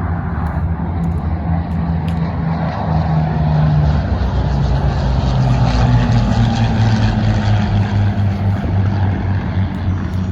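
Piston-engined propeller aircraft flying past, the engine note dropping in pitch as it goes by and loudest about six seconds in.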